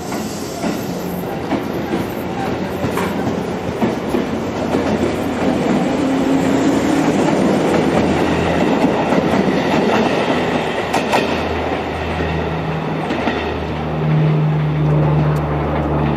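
Seibu old 101 series electric train running on the rails, wheels clicking over rail joints. The sound builds to its loudest mid-way, and a steady low hum sets in near the end.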